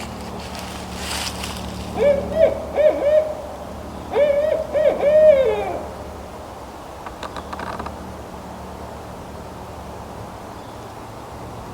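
Barred owl hooting: two rhythmic phrases of about four hoots each, the second ending in a longer note that slurs downward.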